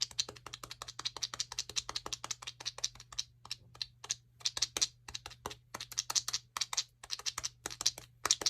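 Jewelry slime, clear slime packed with plastic beads, being squeezed and pressed, giving rapid crisp clicking and crackling. The clicks are close and dense at first, then come in separate bursts about twice a second from a little after three seconds in.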